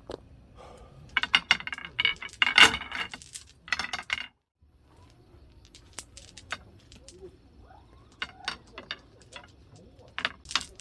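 Small metal objects clinking and jangling in a flurry of bursts, then a few light clicks and taps.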